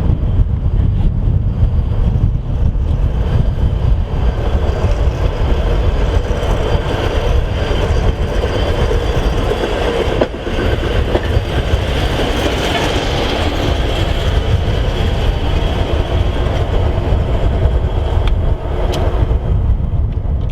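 A train rolling past on the track, a steady heavy rumble that holds throughout.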